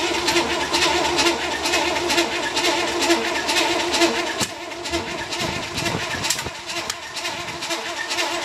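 Rebuilt 1965 Chevrolet Corvair air-cooled flat-six running roughly just after catching, with uneven sharp pops over a steady whine; the ignition timing is off and the engine was thought to be flooded.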